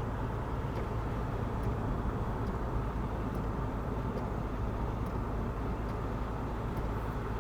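Steady cabin drone of a 1951 Chevrolet cruising on the road, its 292 six-cylinder engine humming low under tyre and road noise.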